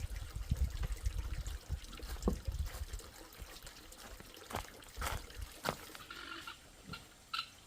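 Water trickling and pouring, with a low rumble at first, then a few light knocks and clicks.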